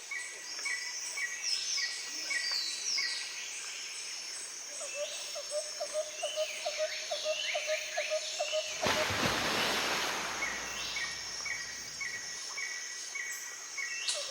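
Birds chirping and calling, with short repeated notes and quick rising and falling calls. About nine seconds in, a loud steady hiss starts and covers them.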